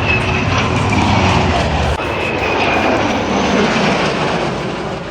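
Low flat pass of an F8F Bearcat piston fighter leading EA-18G Growler jets: a loud, steady aircraft roar with a high whine that slides slightly down in pitch. The low engine drone eases off about two seconds in.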